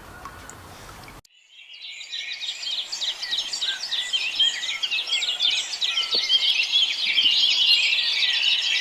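A dense chorus of many small birds chirping and twittering at once, with quick overlapping high-pitched calls. It starts abruptly about a second in, after a moment of faint hiss.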